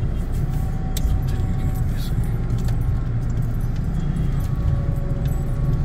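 Car running and rolling, heard from inside the cabin as a steady low rumble, with faint light clicks and jingles over it.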